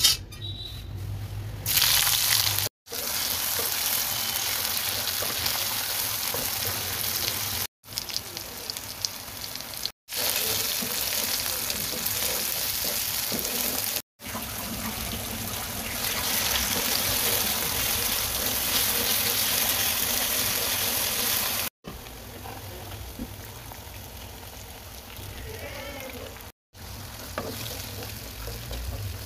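Sliced onions, tomato and whole spices sizzling in hot oil in a wok as they are stirred with a wooden spatula. The sizzling comes in short stretches broken by abrupt cuts, some louder than others.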